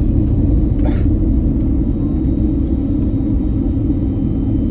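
Steady low rumble of an Airbus A321 airliner in flight, on its way in to land.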